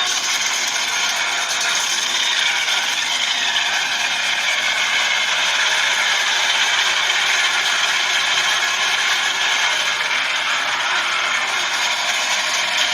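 Car sound recording: a steady, loud rattling mechanical noise with little low rumble, and a faint falling tone about two seconds in.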